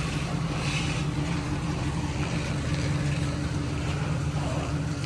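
Turbocharged 1988 Nissan 300ZX (Z31) engine idling steadily.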